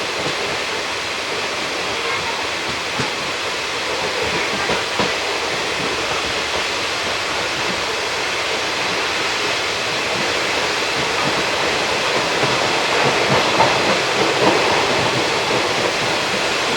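ICF passenger coach running along the track, heard from on board: a steady rush of wheels on rails, slowly growing louder, with a few faint knocks.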